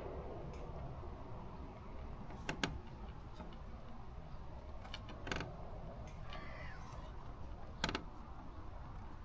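A few short, sharp clicks, about four in all with the last the loudest, over a steady low background rumble.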